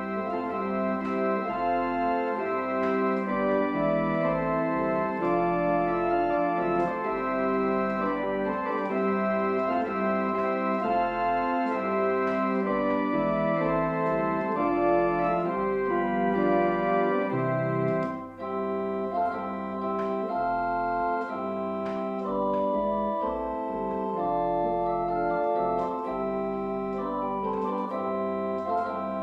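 Organ playing slow sustained chords, with a brief break about 18 seconds in.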